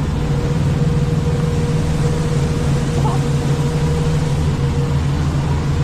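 Diesel truck engine idling steadily: a constant low rumble with a faint steady hum above it.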